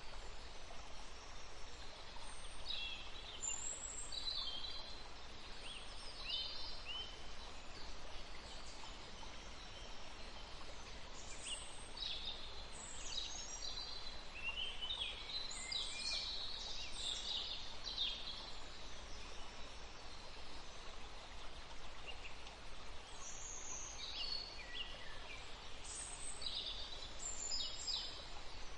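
A forest stream flowing steadily, with songbirds singing in short clusters of high, quick calls: a few early on, a busier run in the middle, and more near the end.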